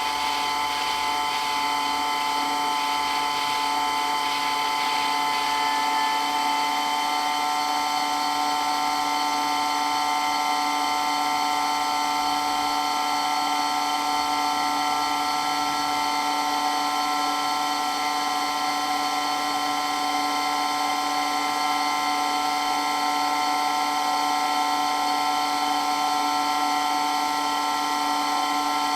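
Water pump running continuously: a steady whine of several constant tones that does not change in pitch or level.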